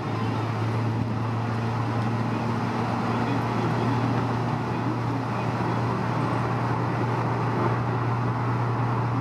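Honda S2000 driving at a steady speed, heard from inside the car: a constant engine drone with tyre and road noise.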